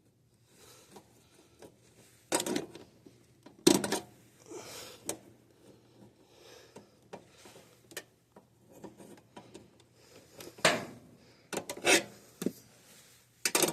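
Irregular knocks, clicks and scraping of hand tools and metal parts as wires are worked into a breaker's terminals in a cramped electrical compartment, with the loudest knocks a few seconds in and again near the end, over a faint steady low hum.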